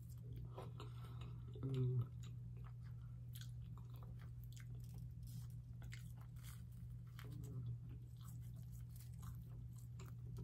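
Close-up chewing and biting: a mouthful of baked penne, then a bite of toasted garlic bread, with small wet mouth clicks throughout and a short hummed sound a little under two seconds in. A steady low hum runs underneath.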